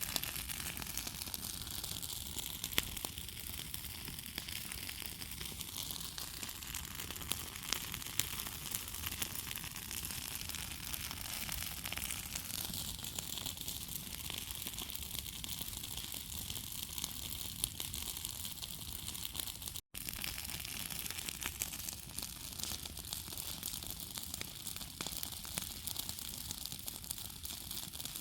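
Bonfire crackling and hissing steadily, with many small irregular pops, broken off briefly by a cut about two-thirds of the way through.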